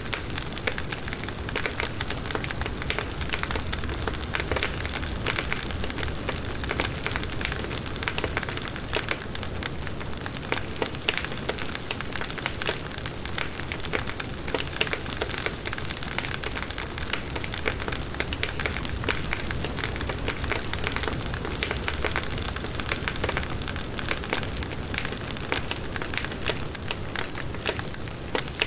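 Firewood burning in a campfire, crackling and popping continuously with dense small snaps over a steady hiss.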